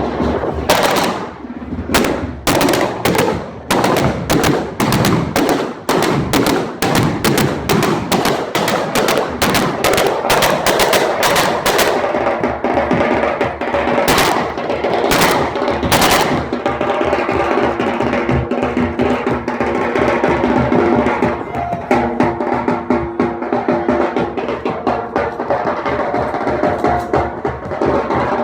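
Rapid gunfire fired in celebration, shots following one another closely for the first twelve seconds or so, then three separate shots a few seconds later, over loud music with drums that carries on throughout.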